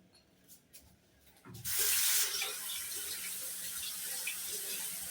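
Water tap turned on about a second and a half in, running steadily into a sink.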